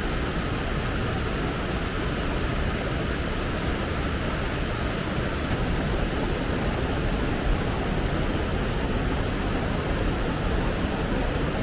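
Waterfall in strong monsoon flow: a steady, even rush of falling water with a deep low rumble.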